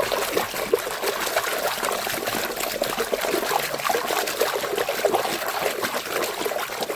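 Water splashing and trickling steadily, with many small sloshes and drips, as a muddy toy dump truck is washed in water.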